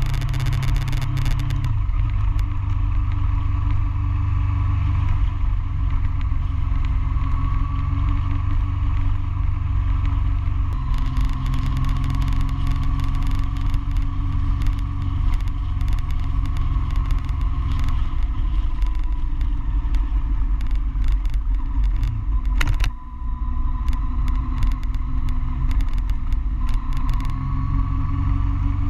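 Motorcycle engine running under way, heard from a camera mounted on the bike, with wind rumble on the microphone. The engine note shifts as the rider works the throttle through the bends, dips briefly about two-thirds through, and rises again near the end.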